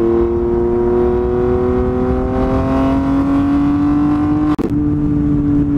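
Recorded BMW M4 engine sound playing back: a steady engine note whose pitch creeps slowly upward, with a brief break about four and a half seconds in before it carries on.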